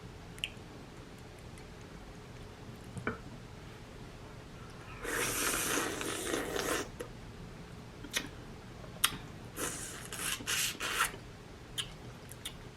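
Wet eating sounds of boiled shrimp being peeled and eaten: squishing and rubbing with scattered sharp clicks, and two longer noisy stretches of about two seconds each, one in the middle and one near the end.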